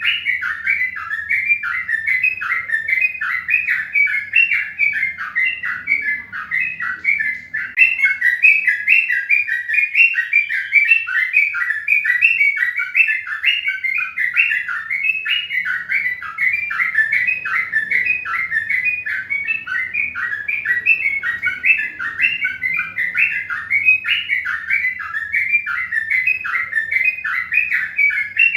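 Birds chirping continuously in a dense, unbroken run of quick, high notes.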